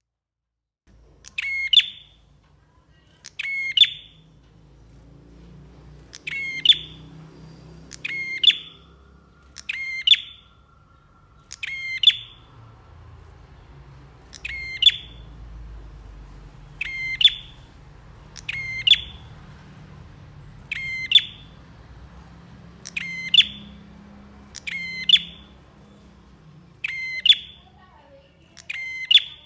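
Prenjak, a prinia, calling over and over: a short, sharp, high note repeated about every two seconds.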